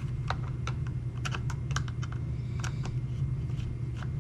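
Irregular small clicks and taps of a Phillips screwdriver working screws out of a chainsaw's plastic top panel, over a steady low hum.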